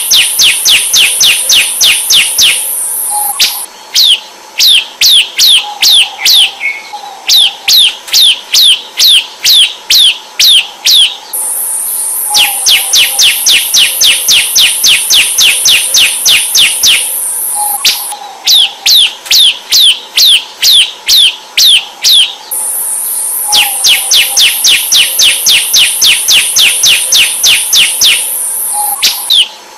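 Bar-winged prinia (ciblek) singing: phrases of several seconds made of sharp down-slurred notes, about three or four a second, with a steady high buzzing trill over some phrases and short pauses between phrases.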